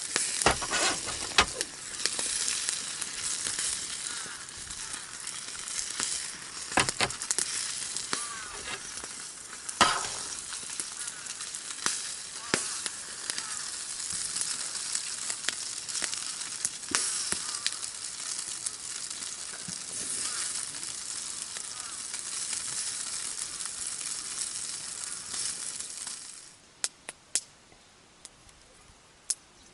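Food sizzling in a pan, a steady frying hiss with occasional sharp knocks and clicks, like a utensil against the pan. It cuts off suddenly near the end, leaving a few faint clicks.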